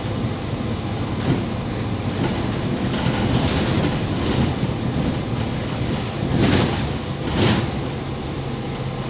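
Interior ride noise of a MAZ 203.065 city bus in motion: a steady engine hum with road and body rumble. Two short, loud rushing bursts come about six and a half and seven and a half seconds in.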